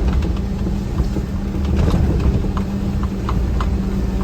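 Vehicle engine and road noise heard from inside the cab while driving: a steady low rumble with a constant hum, and a few faint light ticks near the middle.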